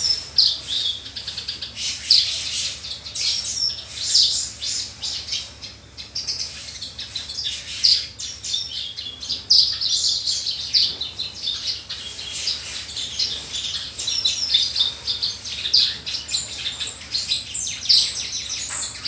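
Javan bush lark (branjangan) in full song: a fast, unbroken stream of varied high chirps and trills, packed with mimicked phrases.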